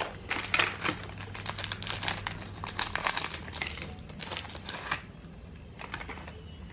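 Small plastic snack packets crinkling as they are handled and opened by hand, in quick irregular crackles that thin out over the last couple of seconds.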